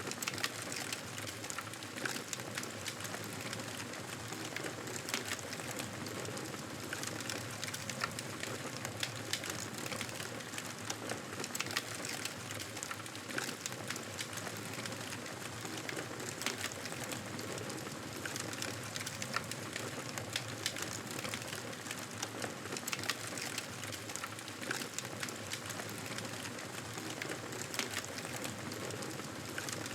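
Wood fire crackling: a steady hiss with frequent small pops and snaps scattered irregularly throughout.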